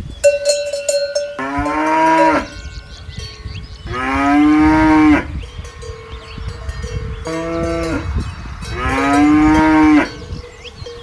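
An animal calling four times, each call a drawn-out cry of about a second that rises and then falls in pitch. A steady ringing tone sounds in the first second.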